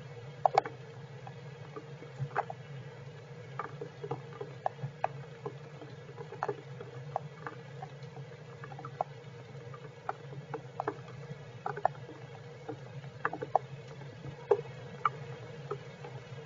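Raindrops in heavy rain tapping irregularly on the squirrels' shelter, several sharp drips a second, over a steady low hum.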